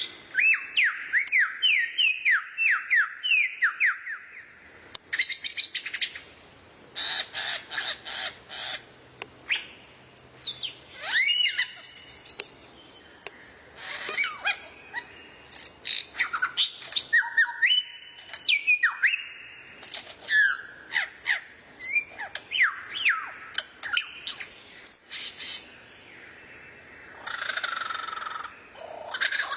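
Songbird song used as masteran for training a magpie-robin: a quick run of down-slurred whistles, about two a second, then a varied stream of chirps, rapid ticking rattles, rising sweeps and short whistles. Near the end there is a buzzy, harsher call.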